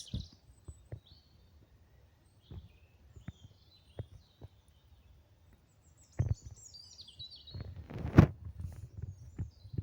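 Woodland birds chirping in short high calls, with scattered sharp knocks and a louder thump about eight seconds in.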